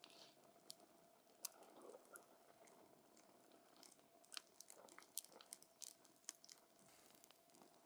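Wood campfire crackling: scattered sharp pops and snaps over a low hiss of burning, with pops coming thickest between about four and six seconds in.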